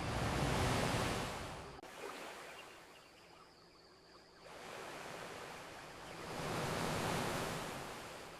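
Ocean waves washing onto a beach: two surges of surf, one near the start that dies away after about three seconds and a second that swells up about halfway through and fades toward the end.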